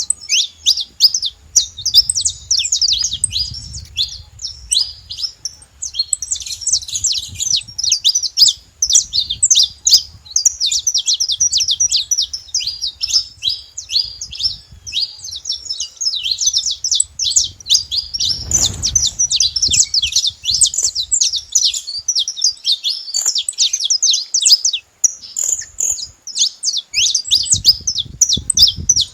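Saffron finches singing: a continuous, dense stream of rapid high chirps and trills.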